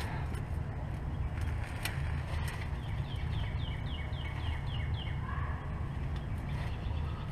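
A bird singing a quick run of short, falling chirps about three seconds in, over a steady low rumble and a few faint clicks.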